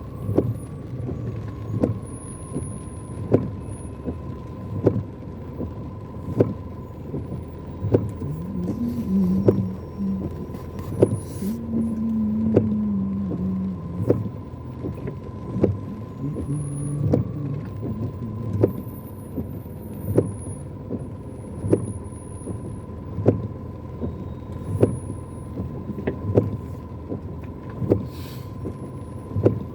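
Inside a car in heavy rain and stop-go traffic: the windscreen wipers knock once about every second and a half over a steady low hum of engine and rain, with a thin steady whine throughout.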